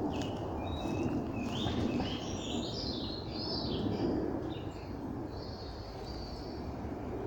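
Wild birds chirping and singing in woodland: short repeated chirps at the start, a busier run of song a couple of seconds in, and a fainter high call later. Underneath is a steady low background rumble.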